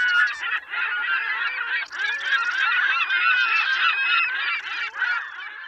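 A large flock of gulls calling all at once, many overlapping cries with no pause between them.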